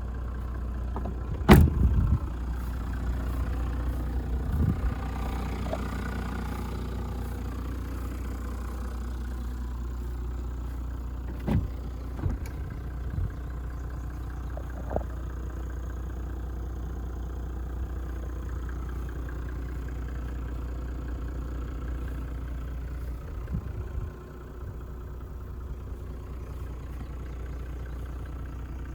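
Toyota Land Cruiser 100 Series 1HD-FTE 4.2-litre straight-six turbo diesel idling steadily. A sharp knock sounds about a second and a half in, and a few lighter knocks come later. The engine sound drops slightly in level about two-thirds of the way through.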